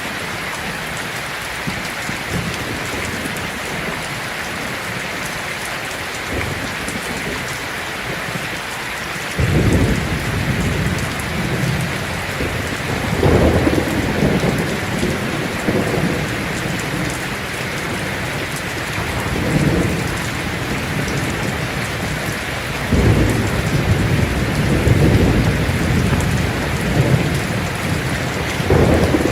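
Heavy rain falling steadily on a tin roof. About nine seconds in, thunder starts suddenly with a low rumble and keeps rolling in waves for the rest of the time.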